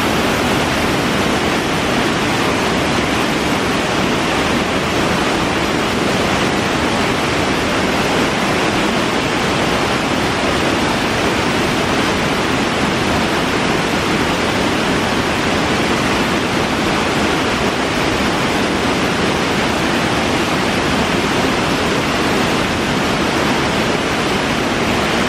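Steady rush of a snowmelt waterfall pouring into a stream that runs underneath the ice.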